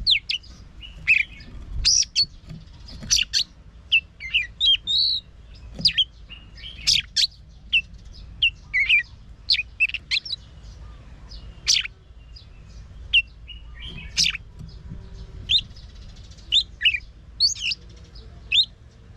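Oriental magpie-robin singing: a varied run of short whistles, chirps and quick trilled notes with brief pauses between phrases.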